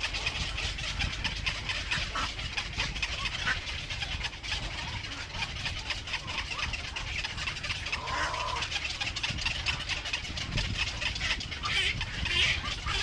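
Birds calling over a steady low rumble, with a short call about eight seconds in and a louder patch of high chirping near the end.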